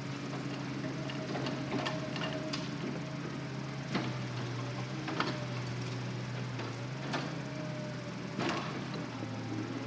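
Hitachi Zaxis excavator's diesel engine running steadily, with a faint whine that comes and goes, and several sharp knocks and clicks at irregular moments, loudest about four and five seconds in.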